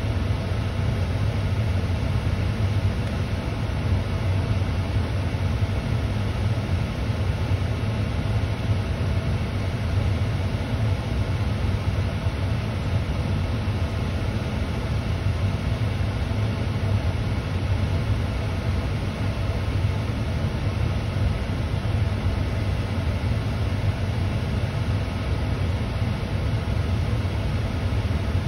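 Steady low rumble of a parked car idling, heard from inside its cabin.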